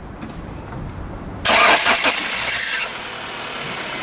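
Peugeot TU5JP4 1.6-litre 16-valve petrol four-cylinder engine starting up. After about a second and a half of quiet, a loud start lasting over a second comes in suddenly. It then drops to a steady idle.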